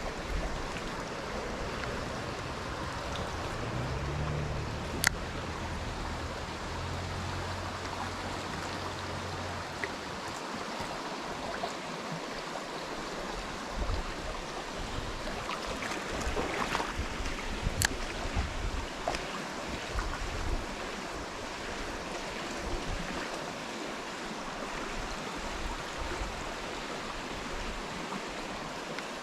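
Steady rush of flowing stream water, with low wind rumble on the microphone through the first ten seconds or so and a couple of sharp clicks.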